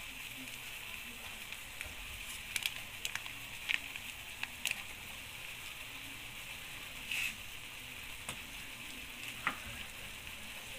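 Pork pieces sizzling in a shallow soy-sauce marinade in a wok: a steady hiss with scattered pops and crackles.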